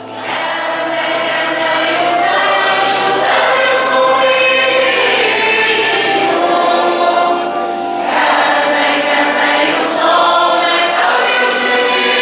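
Church choir singing a hymn in sustained notes over a low held accompanying note, with a short break in the singing about eight seconds in.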